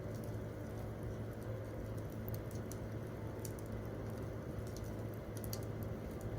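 Wood campfire crackling, with irregular sharp pops and ticks over a steady low rumble.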